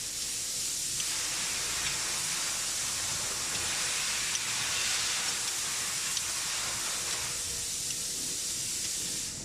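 Steady, even spraying hiss lasting about nine seconds, cutting off near the end.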